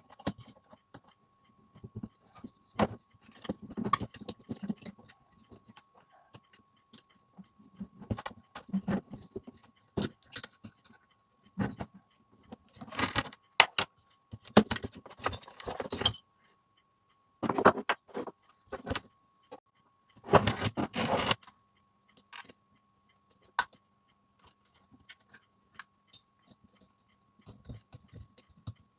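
Small metal parts and hand tools clinking, knocking and rattling in irregular bursts, with a few longer stretches of rattling, as an RC car's engine is worked on by hand.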